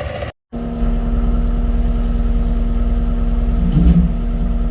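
Diesel engine of heavy earthmoving equipment running steadily at a constant speed. The sound drops out completely for a moment near the start.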